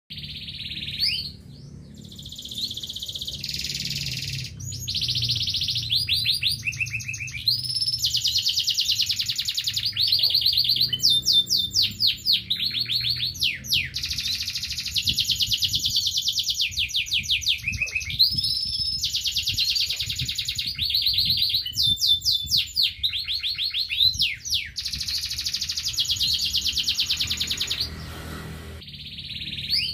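Local Indonesian domestic canary (kenari lokal) singing a long, nearly unbroken song of fast trills and rolling phrases, broken only by a brief pause near the start and another near the end.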